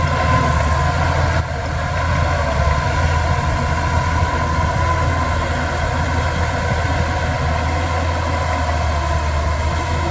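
Diesel engine of heavy earthmoving machinery running steadily, with a deep hum and a steady higher whine over it.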